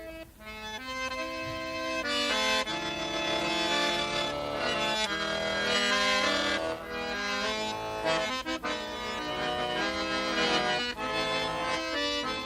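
A garmon, the Russian button accordion, playing a slow melody over sustained chords, with the notes changing about every second.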